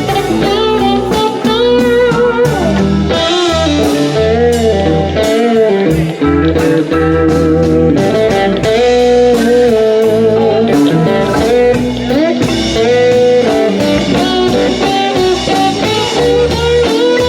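Live blues band playing an instrumental break: a lead guitar solos with bent, wavering notes over bass and drums.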